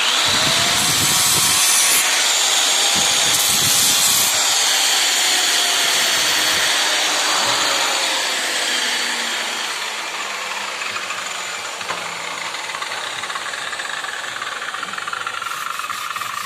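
Angle grinder switched on and run against a freshly laid weld bead, cleaning off the slag. It starts abruptly, and its whine sags slowly in pitch under load, then runs a little quieter in the second half.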